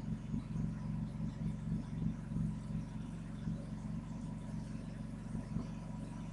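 Porsche 997.1 Turbo's twin-turbo flat-six idling, a steady low rumble with fine regular firing pulses.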